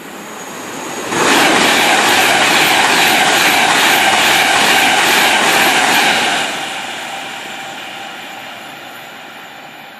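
A train passing through the station at speed on the West Coast Main Line, close by: a rush of wheel and air noise that swells and then comes on suddenly about a second in, holds loud for about five seconds, then fades away.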